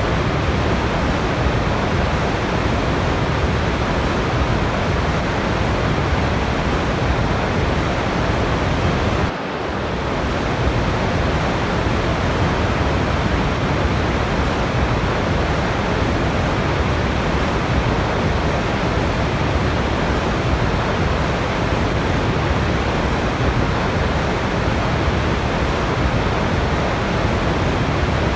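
Steady rushing of a waterfall, an even wall of water noise with no distinct splashes. About nine seconds in it drops briefly and comes back within a second.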